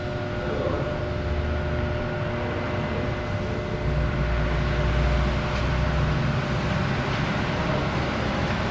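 Steady mechanical rumble and hum with a few constant tones over it. The low rumble grows louder about four seconds in.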